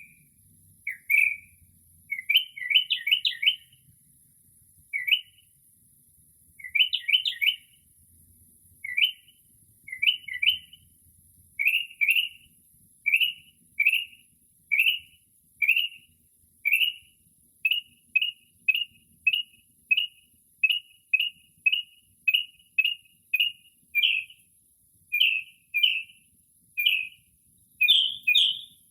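Northern mockingbird singing at night, mimicking other birds' calls. Short clipped notes come first in quick clusters, then from about halfway in as a long, even run of single repeated notes, about two a second.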